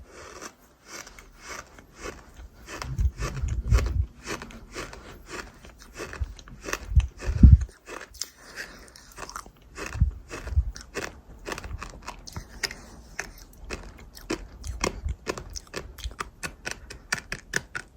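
Close-miked crunching: a mouth biting and chewing gritty, crunchy chunks, with many sharp cracks. There are heavier bites a few times, about 3, 7, 10 and 15 seconds in.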